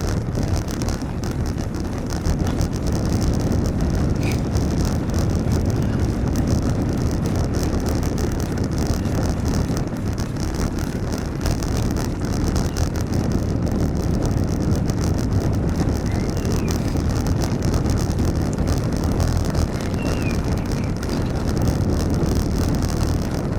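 Steady wind noise buffeting the microphone of a camera on a moving bicycle, over a constant road rumble and hiss, with a few faint high chirps late on.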